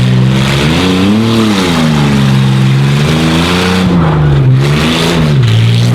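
Chevy S10 Blazer tough truck's engine revving hard and easing off again and again while racing, its pitch climbing and dropping about five times.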